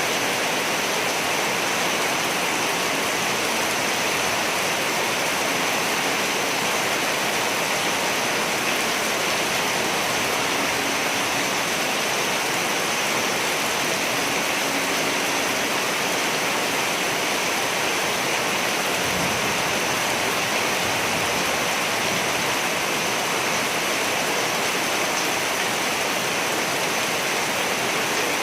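Steady heavy rain falling: an even, unbroken hiss of rain with no thunder.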